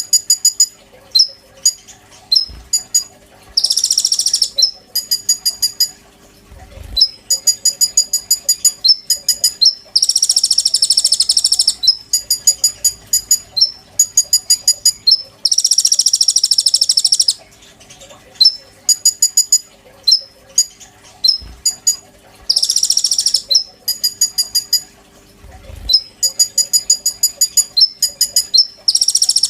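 A konin bird singing: rapid strings of sharp, high chipping notes, broken every few seconds by a long, high buzzing trill. The pattern repeats over and over, with a faint steady hum underneath.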